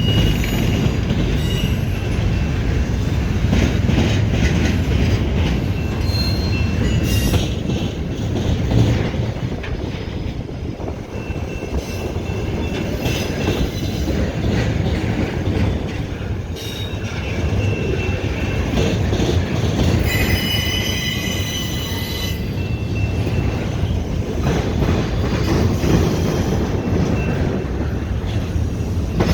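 CSX double-stack freight train rolling past with a steady rumble and clatter. Its wheels squeal in thin high tones, loudest about two-thirds of the way through, as the train switches from one line onto the other.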